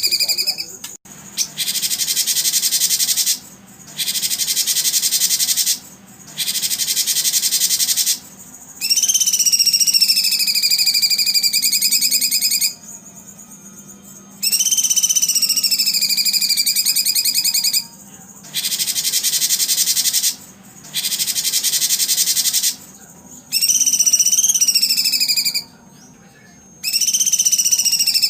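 Recorded birdsong played in repeated phrases of a few seconds with short pauses between: some phrases are dense, high, buzzy trills, others are wavering whistled notes that fall slightly in pitch.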